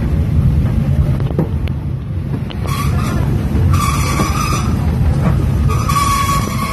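Passenger train running along the track, heard from inside a moving carriage as a loud, steady low rumble. The wheels squeal on the rails in a high, steady tone three times from about three seconds in.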